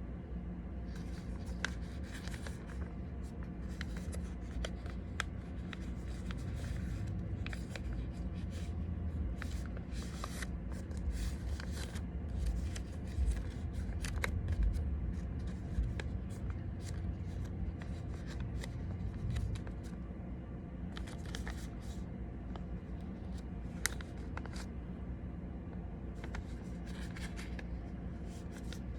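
A sheet of origami paper being folded and creased by hand: irregular crisp rustles and scrapes, over a steady low hum.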